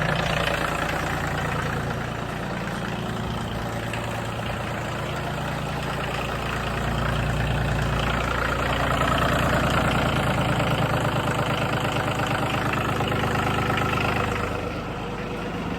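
Diesel tractor engine running just after a cold start helped with glow plugs and ether, idling as it warms up. It gets louder for a stretch in the middle, then settles back near the end.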